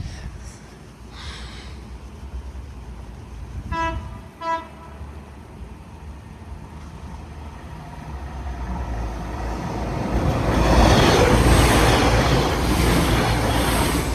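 Train horn sounding two short blasts, which sounded odd, then the train approaching and passing over the level crossing, its rumble building to the loudest part from about two-thirds in.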